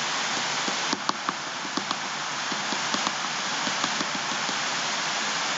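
Water falling steadily: an even hiss dotted with many small, irregular drip ticks, like rain on a surface.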